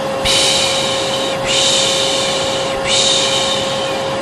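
Hair dryer running steadily with a constant motor hum, with a person's rhythmic "shh" shushing over it, three long shushes about every second and a half: a white-noise loop for soothing a colicky baby.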